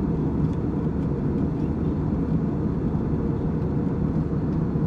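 Steady low rumble of an Airbus A320 airliner heard from inside the cabin: engine and airflow noise, even and unbroken.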